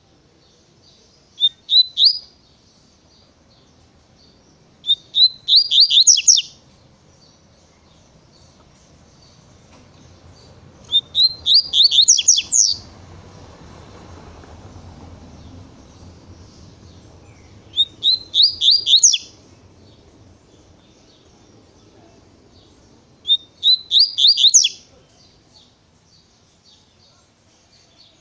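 Double-collared seedeater (coleiro) singing its fast 'tui tui' song: five short phrases of rapidly repeated high notes, a few seconds apart, with faint soft twittering between them.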